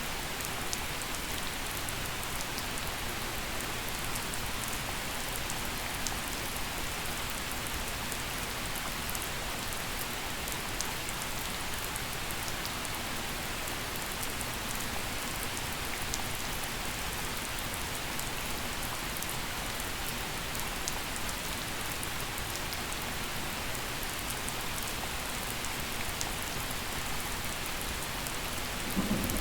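Steady gentle rain falling and pattering on surfaces, an even hiss with scattered sharp drop ticks. A low rumble of thunder starts to build right at the end.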